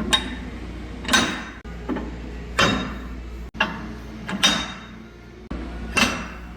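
A series of five sharp clanks, each with a short ringing tail, over a steady low hum, broken up by abrupt cuts.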